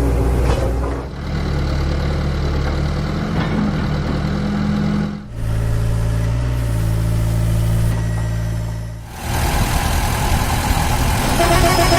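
Heavy truck engine sound effects running steadily, with abrupt changes about a second in, around five seconds in, and around nine seconds in.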